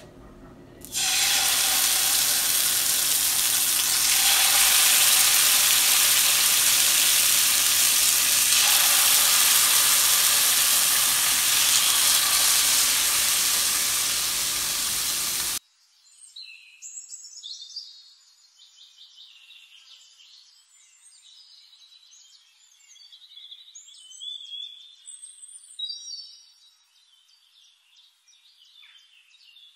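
Marinated chicken skewers sizzling loudly on a hot, oiled tawa. The hiss starts suddenly about a second in and cuts off abruptly about halfway through. After that, songbirds chirp and sing faintly.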